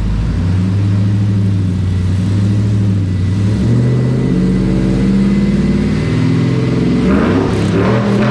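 A 6.0-litre LS V8 in a 2003 Chevrolet Silverado 2500 running under way through long-tube headers and a rear-exit stainless true-dual exhaust. The exhaust note is deep and steady, shifts in pitch a couple of times, and climbs near the end.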